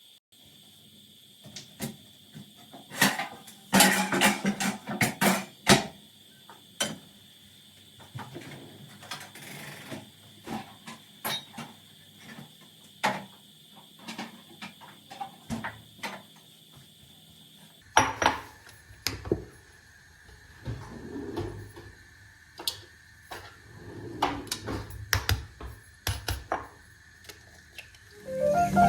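Irregular clinks and knocks of dishes and kitchen utensils being handled, with a denser run of clatter about four seconds in.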